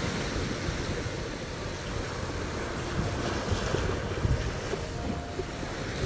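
Sea waves washing on the beach, with wind buffeting the microphone in low gusts.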